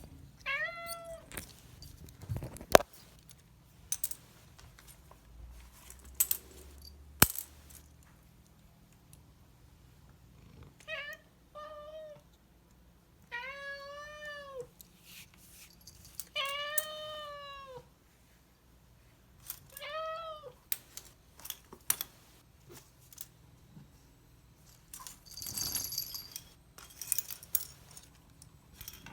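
Domestic cats meowing about six times, some calls short and some long and drawn out, each rising and then falling in pitch. Scattered clicks and knocks of handling, and a short jingling rattle near the end.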